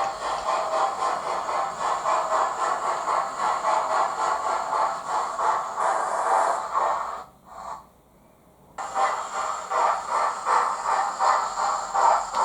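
Sound-fitted Hornby Flying Scotsman model locomotive playing steam locomotive sound effects through its small onboard speaker, a steady rhythmic pattern with hiss. About seven seconds in it cuts out for a second or so and then comes back.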